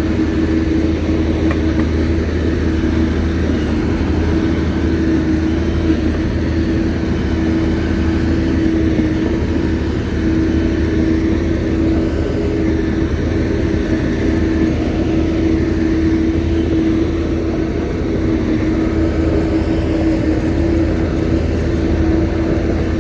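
Shantui bulldozer's diesel engine running steadily, with a constant droning tone and low rumble.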